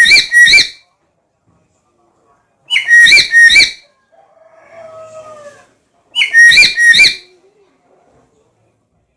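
Black-capped lory calling: loud bursts of three or four quick, high whistled notes, repeated about every three and a half seconds, with a quieter, lower falling call between two of the bursts.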